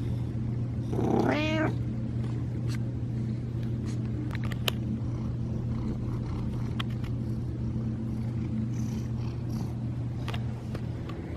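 A cat meows once, a short falling call about a second in, over a steady low hum with a few faint clicks.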